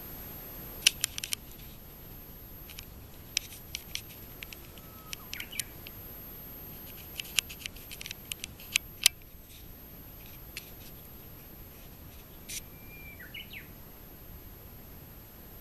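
Small birds calling: a scattering of sharp high chips, several in quick runs, and a few short whistled notes midway and again near the end, over a steady background hiss.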